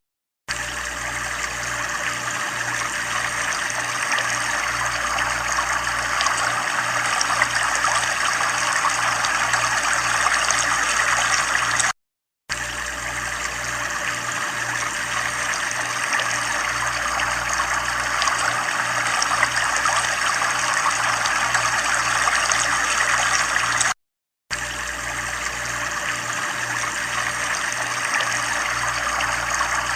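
Running water trickling and splashing steadily. It drops out completely for about half a second three times, roughly every twelve seconds, as a looped recording restarts.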